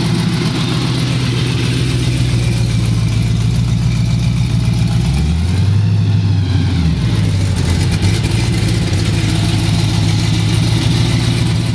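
Car engine idling loudly close by, with one brief rev about five seconds in that rises and settles back to idle.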